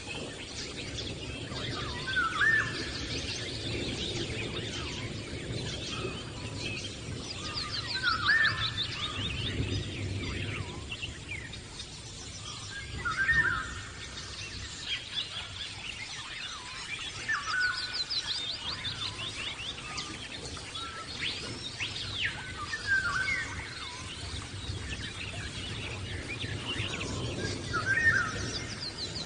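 Wild birds singing outdoors. A short call phrase repeats every few seconds, and higher, fast trills of repeated notes come in now and then, over a low rumble.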